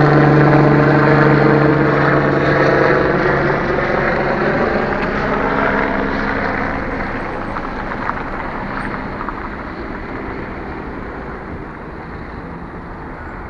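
Helicopter flying away: its steady droning hum grows gradually fainter, the hum dying out about five seconds in and leaving a fainter rushing noise that keeps fading.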